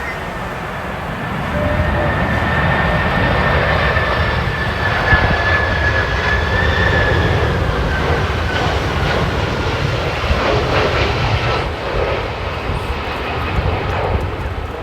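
Boeing 767-338(ER) twin-engine jet on final approach passing low overhead: a steady loud jet rumble with an engine whine that slowly falls in pitch as it goes by.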